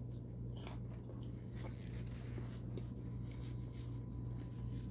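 A person chewing and biting into a soft tortilla wrap, with faint scattered mouth clicks and smacks over a steady low hum.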